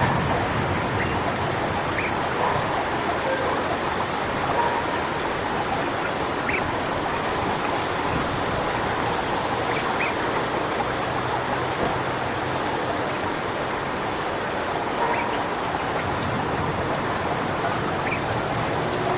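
Strong wind rushing steadily through coconut palm fronds, with a few short, faint calls heard over it now and then.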